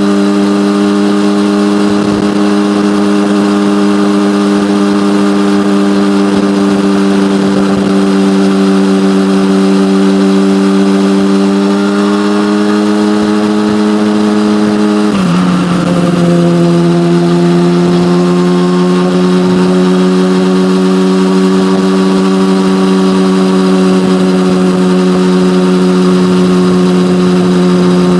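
Yamaha motorcycle with an SC-Project aftermarket exhaust cruising at steady revs. About halfway through the note briefly dips and wavers, as on a gear change, then settles at a slightly lower steady pitch.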